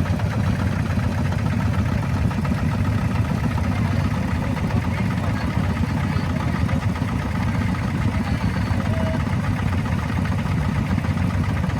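Small farm tractor's engine running steadily with a rapid, even chugging.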